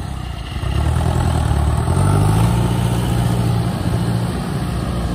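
Engine of a tracked rice-hauling tractor running under load. Its note rises about a second in, holds, then eases off near the end.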